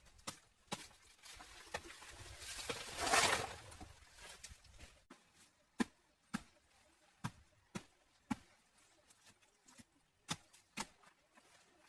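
A short rustling or scraping swell about three seconds in, then a series of sharp, irregular knocks or taps, roughly a dozen, spaced half a second to a second apart.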